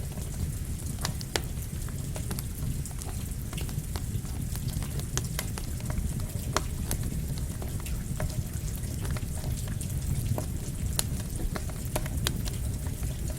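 Campfire crackling with frequent sharp, irregular pops over steady falling rain and a low rumble.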